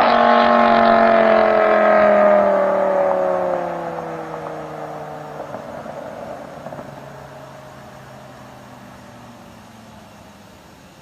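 BMW M6 with an iPE valved exhaust, its engine note sliding steadily lower in pitch. It is loud for the first three or four seconds, then fades away as the car moves off into the distance.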